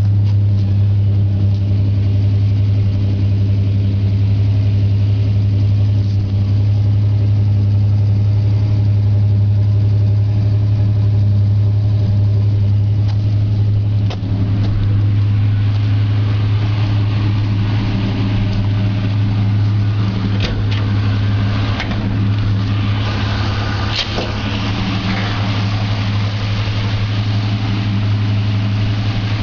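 1966 Ford Falcon's 200 cubic inch inline six running steadily through split Hooker headers and a dual exhaust with 2.5-inch Flowmaster 40 series mufflers. A few short clicks sound over it in the second half.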